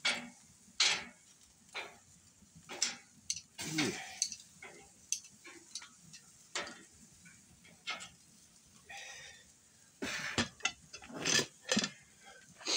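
Metal cooking utensils clinking and scraping against a charcoal grill and pan in irregular clicks, with a denser run of clatter near the end.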